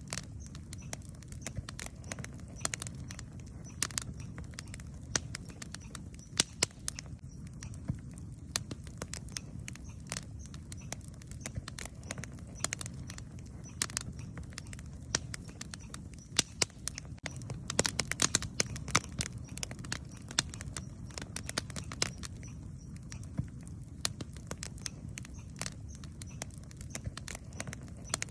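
Wood campfire burning, with irregular sharp crackles and pops over a steady low rumble; the pops come thick and fast for a few seconds about two-thirds of the way through.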